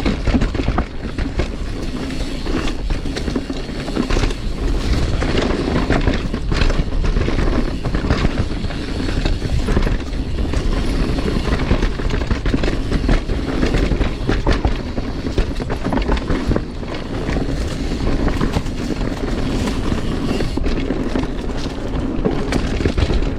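Mountain bike rolling over a rough dirt trail: tyre noise and a constant rattle of small knocks from the bike, over a low rumble of wind on the microphone.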